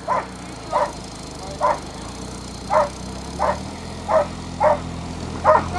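A dog barking repeatedly, about eight barks at one or two a second, over an engine running steadily underneath.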